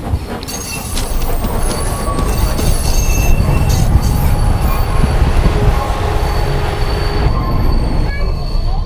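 Ffestiniog Railway narrow-gauge steam train running, with a heavy rumble that grows louder about a second in and a steady high squeal from the wheels on the rails.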